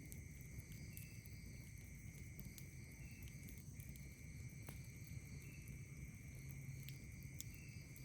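A faint chorus of night insects. One trills as a continuous high tone that breaks briefly about halfway through, another gives a short chirp every two seconds or so, and a few faint sharp crackles come from a wood campfire.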